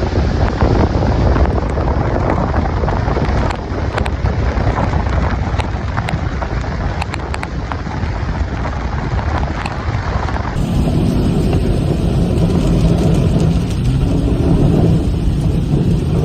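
Strong wind blowing across the microphone: a loud, steady rush with a few sharp ticks in the middle. About ten seconds in the sound changes abruptly, as at an edit, and goes on as a duller rush.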